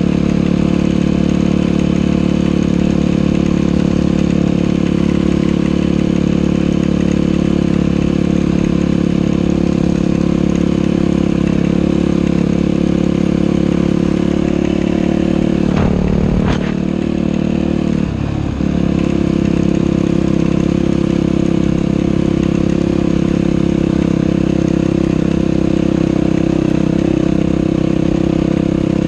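Dirt bike engine running steadily at a constant pitch, with the revs dropping briefly twice a little past halfway.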